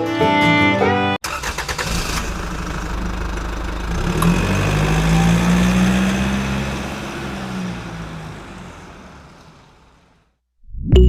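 An engine running with a low rumble, its pitch rising and then falling once, before fading out. It follows an abrupt cut from music about a second in.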